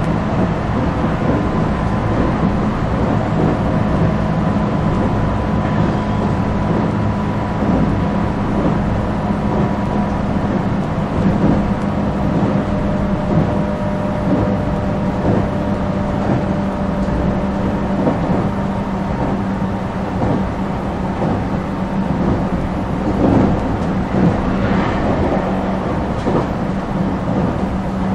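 Inside a moving JR commuter train: the steady rumble of the running train, with a steady hum running through it.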